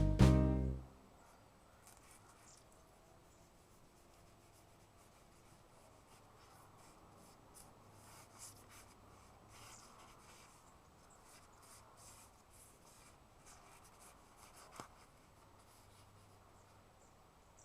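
Faint, uneven scratching of a drawing tool being stroked over the drawing surface, with small ticks here and there and one sharper tap near the end. The tail of a drum-backed music track cuts off in the first second.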